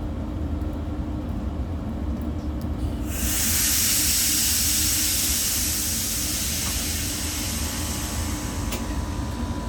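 NMBS passenger train at a station platform: a steady low rumble, then about three seconds in a sudden loud hiss of air that fades away over some five seconds, followed by a single click.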